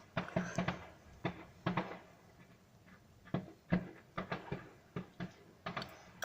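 A run of irregular light knocks and clicks, roughly two or three a second, like small objects being handled or tapped.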